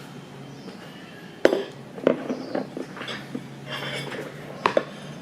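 A low steady hum, then a sharp click about a second and a half in followed by scattered light clicks, knocks and clinks of objects being handled, with faint voice fragments among them.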